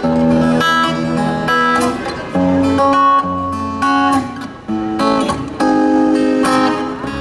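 Live band music led by strummed acoustic guitar, playing chords that change every second or so.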